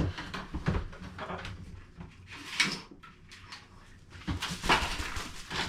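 Props being handled and set in place: light knocks and clicks, with short rustling scrapes about two and a half seconds in and again near the end.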